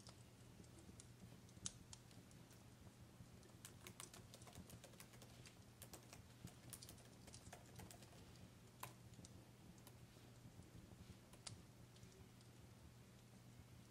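Faint fireplace crackling: irregular sharp pops and snaps, a few louder ones, over a steady low hum.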